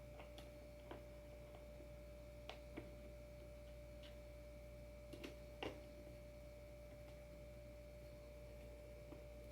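Near silence with a faint steady high-pitched tone, broken by a few small clicks and taps from handling the surfskate adapter's hardware and screws, the loudest about five and a half seconds in.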